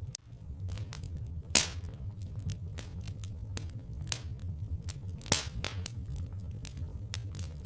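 Wood fire crackling: irregular small crackles, with two sharp pops about a second and a half in and about five seconds in, over a steady low rumble.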